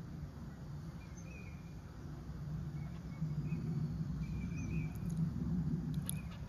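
Faint, short bird chirps, several spread over a few seconds, over a steady low outdoor rumble.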